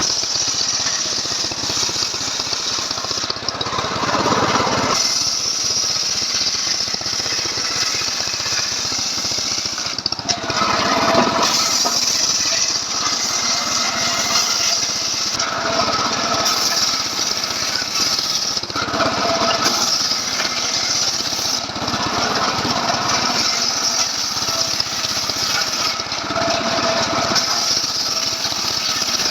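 Stihl MS 381 two-stroke chainsaw engine running hard on a homemade sawmill rig, sawing through a log. Its load and pitch shift every few seconds as the cut goes on.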